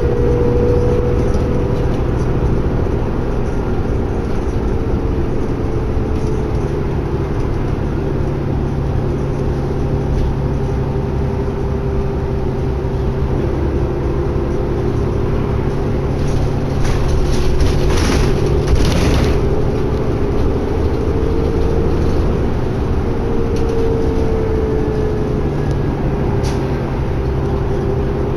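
Cabin noise of a 2011 New Flyer D60LFR articulated diesel bus cruising on the highway: a steady engine and road drone with a whine that slowly rises and falls in pitch. A brief louder clatter a little over halfway through.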